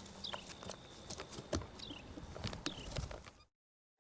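Scattered light taps and knocks with a few short, high, falling chirps; the sound cuts off abruptly about three and a half seconds in.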